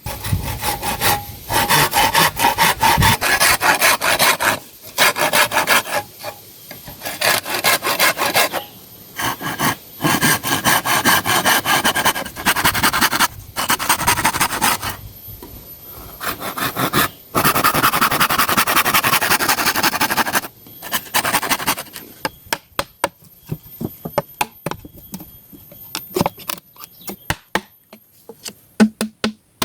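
Wood being hand-sawn in several bursts of rapid back-and-forth strokes with short pauses between them. In the last third this gives way to a series of separate sharp knocks and taps.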